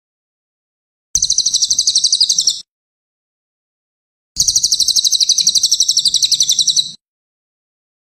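Cililin songbird singing two rapid high-pitched trills, each a fast run of repeated notes at about a dozen a second. The first lasts about a second and a half; the second starts about four seconds in and runs about two and a half seconds.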